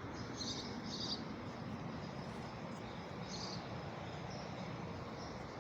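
Outdoor backyard ambience: a steady hiss of background noise with a few faint, short, high chirps now and then.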